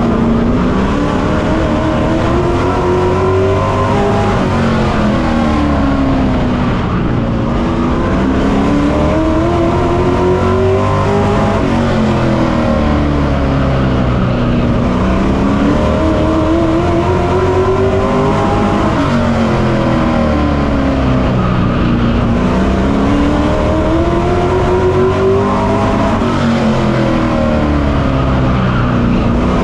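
Onboard sound of a Pro Truck race truck's engine lapping a short oval. The engine pitch climbs steadily under full throttle down each straight, then drops sharply as the driver lifts for the turns, repeating about every seven seconds.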